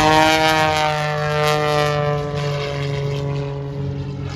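Propeller aircraft flying past, its engine note falling slowly in pitch as it goes by.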